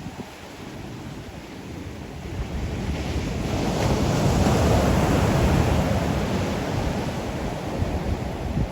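Ocean waves breaking on the shore: a wave swells up from about three seconds in, peaks in the middle and washes back. Wind rumbles on the microphone throughout.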